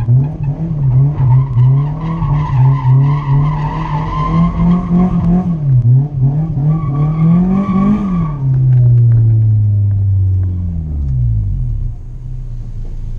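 Honda S2000's four-cylinder engine, heard from inside the cabin, revved up and down in quick repeated throttle blips. About eight seconds in it climbs higher once more, then drops back to a steadier, lower run.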